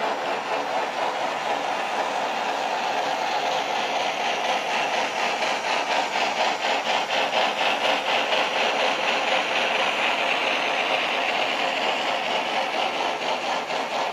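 Sound system of a model Southern Pacific AC-12 cab-forward steam locomotive, giving a quick, steady chuff beat of about four to five a second as it runs with a train of boxcars.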